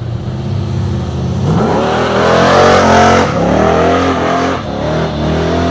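V8 ute engine idling low, then revving hard about a second and a half in: the revs climb and fall three times, loudest two to three seconds in.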